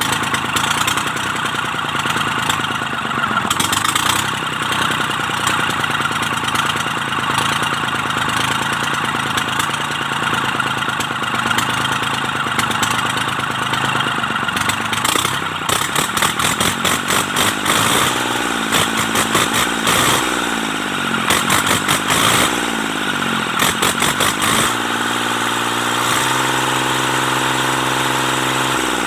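Mitsubishi K3E three-cylinder diesel engine of an MT18 tractor running after its pistons and rings have been replaced. Past the middle its speed rises and falls several times as it is revved, then about three quarters through it settles into a steady idle.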